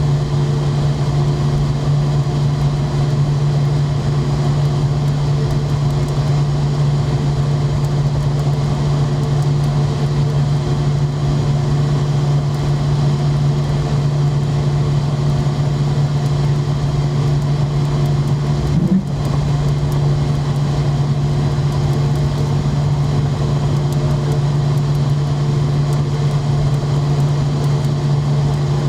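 Steady low hum of a McDonnell Douglas MD-90 airliner, with fainter steady tones above it and a brief chirp about two-thirds of the way through.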